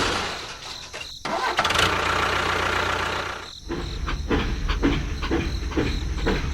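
A small engine starting and running, cutting out briefly about three and a half seconds in, then running again with a regular knocking pulse of about three beats a second.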